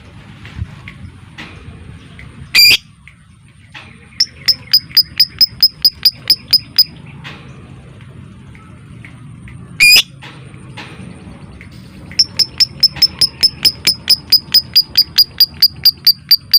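Lovebird calling: runs of rapid, sharp, high chirps in the clicking 'ngetik' style, about four to five a second, broken twice by a single loud shriek.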